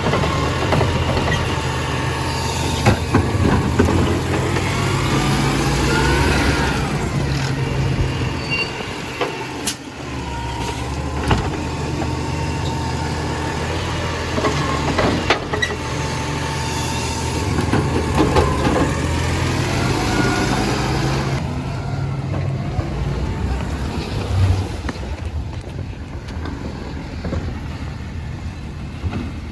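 Compost collection truck's engine running steadily, with two rising-and-falling mechanical whines and a few sharp knocks. The engine sound drops away about two-thirds of the way through.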